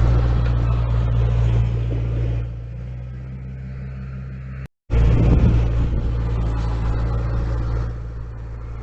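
Dump truck's diesel engine running with a steady low drone, dropping in level about two and a half seconds in. After a brief cut to silence near the middle, the engine comes back loud and eases off again near the end.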